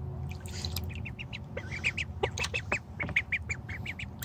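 A young domestic duck giving a run of short, high honking calls, which the owner takes for her happy honk.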